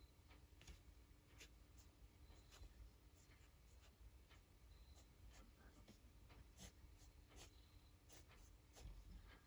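Faint scratching of a fine-tip ink pen drawing on paper, in many short, irregular strokes.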